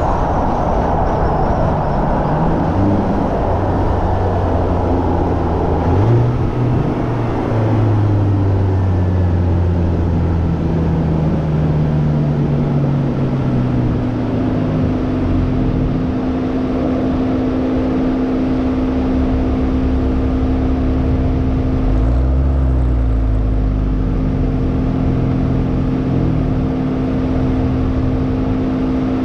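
Hyundai Elantra N's turbocharged 2.0-litre four-cylinder engine heard from inside the car at speed on a race track: the engine pitch climbs, breaks for a gear change about six seconds in and climbs again, then holds fairly steady, with a dip and a low rumble a little past twenty seconds in. A steady rush of wind and road noise runs underneath.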